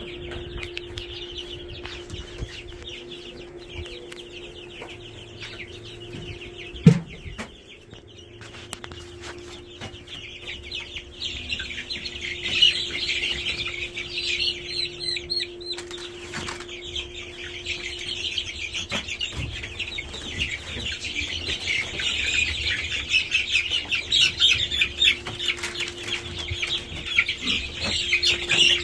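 A crowd of two- to three-week-old broiler chicks (Cornish Cross, Freedom Ranger and Bresse) peeping densely, getting louder about halfway through, with wings fluttering as they are handled. A single thump comes about seven seconds in, over a steady low hum.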